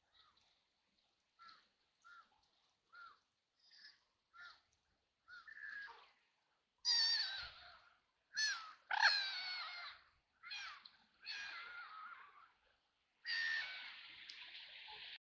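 Ducks quacking: a run of soft, short quacks, then from about seven seconds in a string of louder, harsh quacks, ending in one long drawn-out call.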